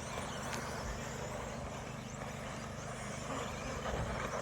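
Radio-controlled 2WD short course trucks racing around the track: a steady, moderate mix of electric motor whine and tyre noise.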